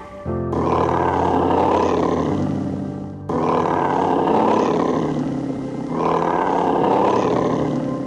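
A large animal gives three long, rough roars one after another, each lasting about three seconds, over background music with low sustained notes.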